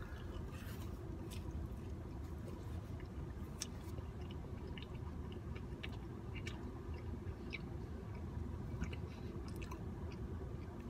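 A person chewing and biting food with soft, scattered small clicks, over a steady low hum inside a car.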